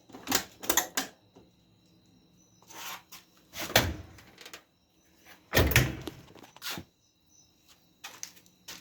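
Parts of a Kenmore clothes dryer being handled and fitted back together: a series of irregular knocks and thunks, some in quick clusters, with short quiet gaps between.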